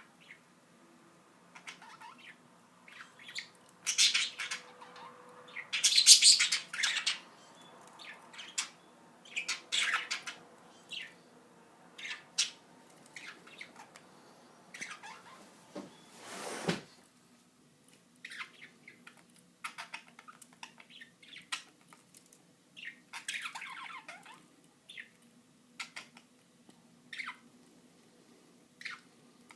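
Two pet budgerigars chirping and squawking in short, irregular calls, loudest in bursts about four and six seconds in, with a brief rushing sweep about halfway through.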